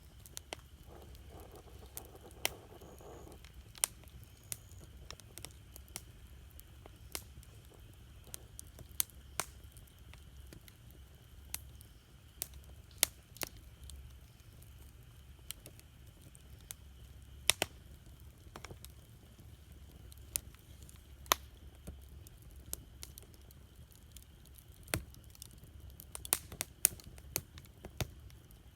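Wood campfire crackling: irregular sharp pops and snaps, with a cluster of louder pops near the end, over a low steady rumble.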